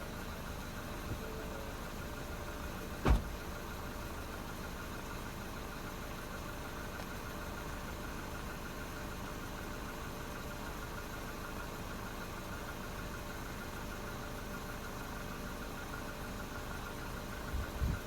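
2016 Ford Fusion SE with its stock exhaust idling steadily. A single sharp knock about three seconds in is the loudest thing.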